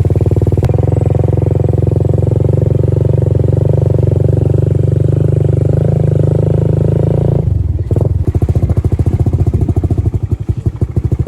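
Motorcycle engine running steadily. About seven and a half seconds in, its note drops to a slower, pulsing beat.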